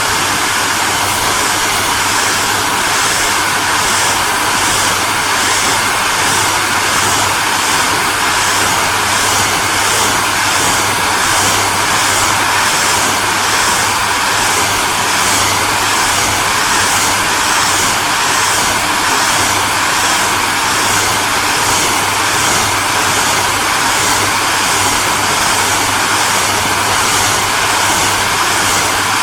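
Hairdryer running steadily: an even rushing hiss of blown air over a low motor hum.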